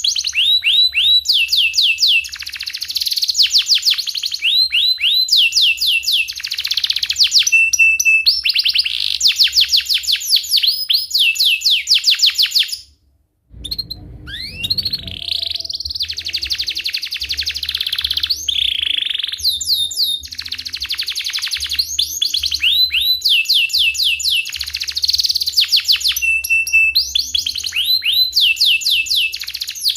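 Domestic canary singing at length: rolling trills of rapid, repeated sweeping notes mixed with chirps, phrase after phrase. The song breaks off briefly about 13 seconds in, then resumes.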